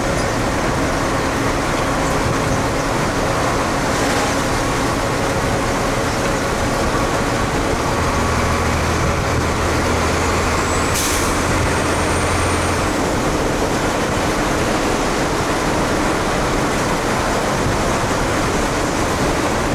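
Fire engine driving, its engine and road noise running steadily inside the cab. There is a short hiss about eleven seconds in.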